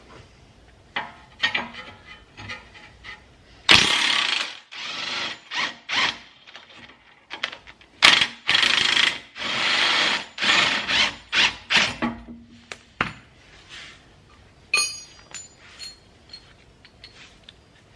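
Power tool, most likely an impact wrench, run in several loud bursts of about a second each to undo the 21 mm bolt of a rear lower suspension arm, with shorter knocks in between. A brief metallic clink near the end.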